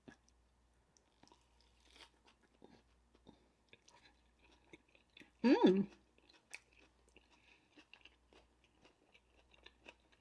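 Close-miked chewing of an onion-wrapped cheeseburger: soft crunching of onion and faint wet mouth clicks throughout, with a short voiced hum about five and a half seconds in.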